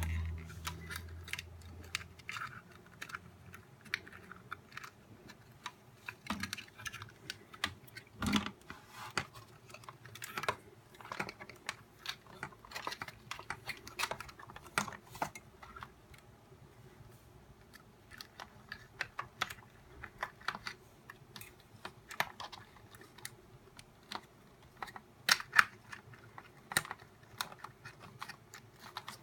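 Irregular light clicks and taps of the plastic housing and small parts of a nail dust collector being handled during disassembly and reassembly, with a few sharper knocks.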